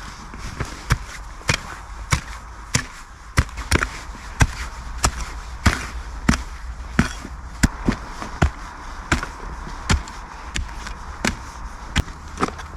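Repeated strikes of a tool on wood, evenly paced at about one and a half a second, some harder than others.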